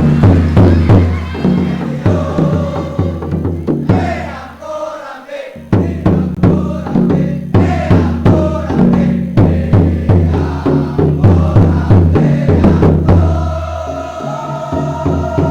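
Boys' choir singing over a heavy bass and drum accompaniment with a driving beat. About four seconds in the bass and drums drop out briefly, leaving the voices, then come back in.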